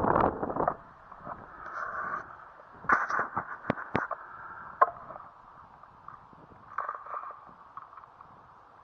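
Wind buffeting the microphone, dying down about a second in, followed by a handful of sharp clicks and faint rustles, mostly around the middle.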